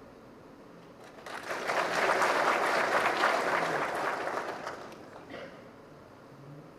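Audience applauding: a burst of clapping that starts about a second in, swells, and dies away around five seconds in.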